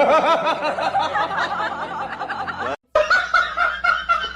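Someone laughing in quick, high-pitched bursts. The laughing breaks off just before the three-second mark, and a different high, wavering sound follows.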